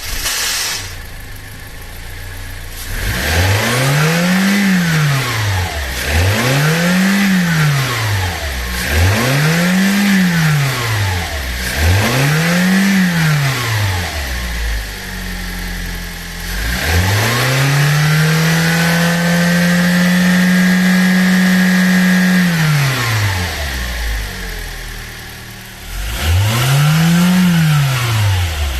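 Toyota 1TR-FE 2.0-litre four-cylinder petrol engine idling just after a start, then revved in four quick blips in a row. It is then held at higher revs for about six seconds, and blipped twice more near the end.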